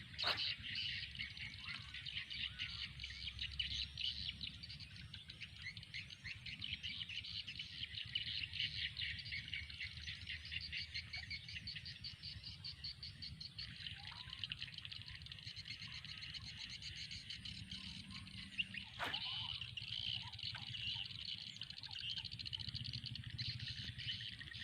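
Dense, steady chorus of rapid high chirping from wild creatures, over a low rumble. A single sharp click comes just after the start and another about nineteen seconds in.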